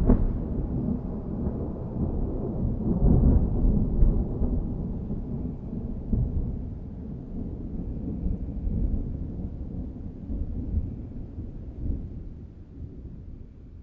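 Thunder rolling after a strike: a long, low rumble that swells a couple of times and slowly fades away.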